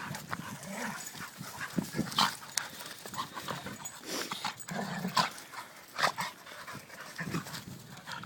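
Dogs play-fighting, giving short, irregular grunts, growls and whimpers, with scuffling. These are play noises, not real fighting.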